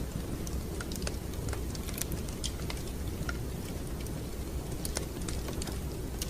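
Wood fire crackling: irregular sharp snaps and pops, a few each second, over a steady low rumble of the burning fire.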